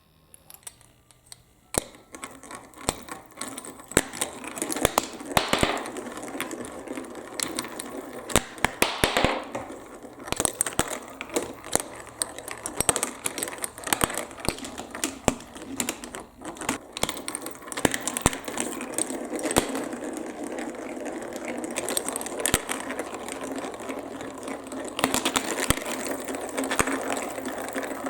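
Marbles rolling and clacking through a building-block marble run with water running down the track: a dense, irregular stream of sharp clicks over a steady wash of flowing water.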